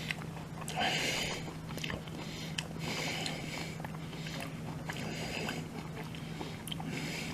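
A person chewing a mouthful of poke bowl close to the microphone: soft, wet mouth noises that come and go every second or two, with small clicks, over a steady low hum.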